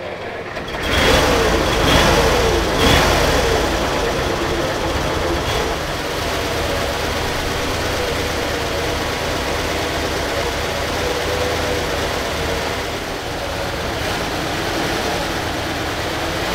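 Steyr 1500A's air-cooled V8 petrol engine starting. It fires about a second in, the revs rise and fall over the next couple of seconds, then it settles into a steady idle.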